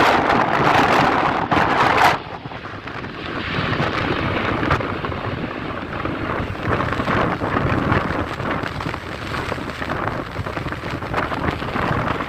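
Strong wind buffeting the microphone, heaviest in the first two seconds, over the steady rumble of an Airbus A350's Rolls-Royce Trent XWB jet engines at takeoff thrust.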